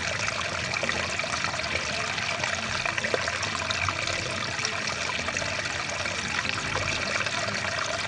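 Stream water rushing steadily, an even, unbroken wash of running water.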